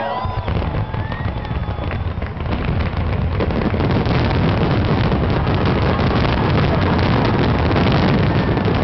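Fireworks display: aerial shells bursting in a rapid, overlapping barrage with crackling. It grows denser and louder about three and a half seconds in.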